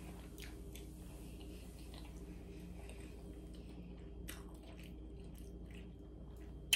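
A person chewing a mouthful of food with the mouth closed: faint, irregular wet mouth sounds over a steady low room hum, with one sharp click near the end.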